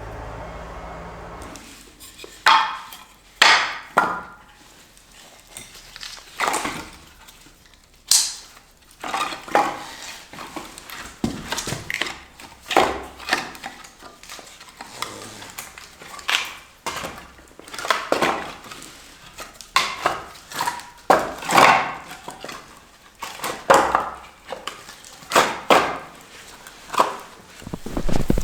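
A long series of sharp, irregular knocks and strikes, roughly one a second, some coming in quick pairs.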